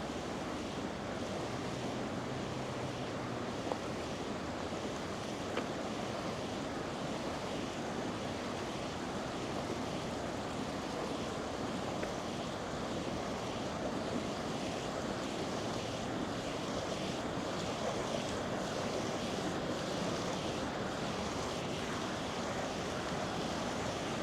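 A river's flowing water rushing steadily, an even, unbroken noise with a few faint clicks.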